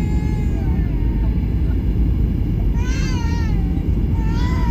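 Steady low rumble of an airliner cabin in flight, with a baby crying over it in high, wavering wails: one trailing off just after the start, one about three seconds in, and another near the end.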